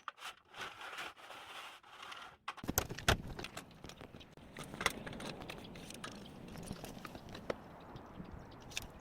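Installation work noise: scraping and rattling of parts with scattered clicks. About two and a half seconds in a steady low rumble sets in, with a couple of sharp knocks and lighter ticks after.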